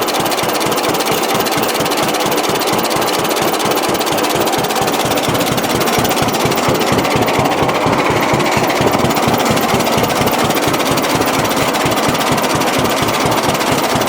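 John Deere B two-cylinder engine idling with even, regular firing pulses, running on the fuel left in the carburetor after the gas has been shut off at the sediment bowl.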